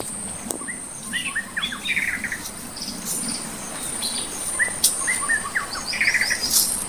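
Birds calling in the forest: short chirps and quick runs of whistled notes, coming again and again, over a steady high thin tone.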